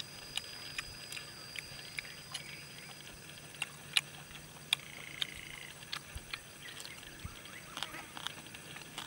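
Close-up eating: irregular small clicks and smacks of chewing grilled fish and raw chili, about one or two a second, over a faint steady high insect drone that stops about three seconds in.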